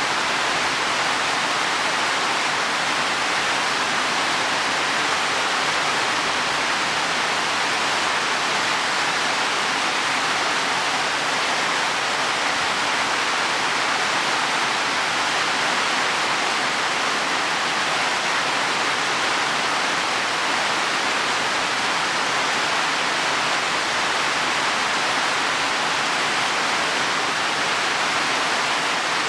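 Heavy rain falling steadily on leaves and soil, an even, unbroken hiss.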